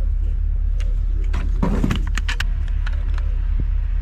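Vehicle engine running with a steady low rumble, overlaid by a scatter of sharp clicks and knocks and a brief louder clatter about halfway through.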